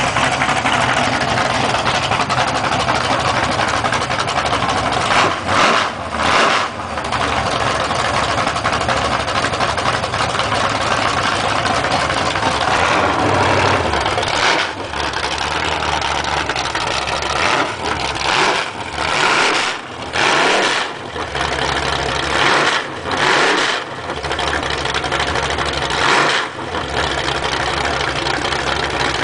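Freshly rebuilt Chevrolet 350 cubic-inch small-block V8 running on a test stand. It idles loudly and is revved in several quick throttle blips, around 5–7 s and again from about 14 s to 27 s.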